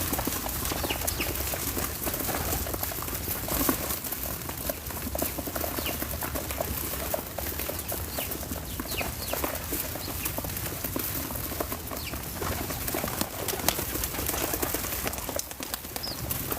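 Outdoor ambience with a steady hiss, many small irregular clicks and taps, and a few short faint bird chirps.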